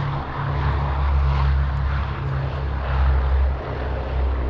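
Piston-engined WW2 warplane flying by: a steady low propeller-engine drone that swells slightly about a second in and again about three seconds in.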